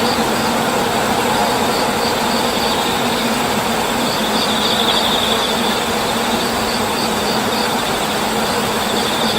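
A loud, steady machine-like noise, a constant rushing with a faint steady hum in it, that cuts off abruptly at the end.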